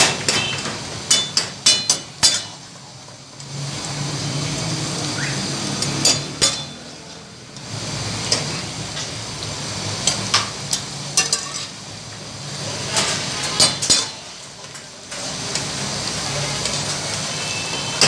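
Lamb karahi sizzling in a large metal karahi as a long metal ladle stirs it, knocking and scraping against the pan in clusters of sharp clanks. The sizzle dips briefly a few times between bouts of stirring.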